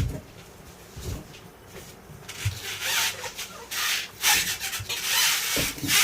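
Irregular rubbing and scraping noises, swelling and fading several times in the second half, with a few dull knocks.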